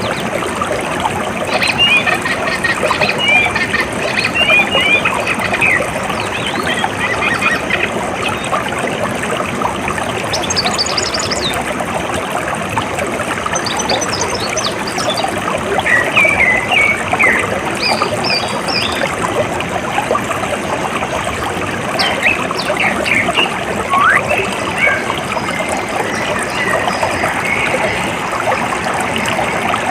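Steady trickling, splashing water with short bird chirps and calls scattered over it, clustering around a couple of seconds in, at about ten to nineteen seconds, and again near the end.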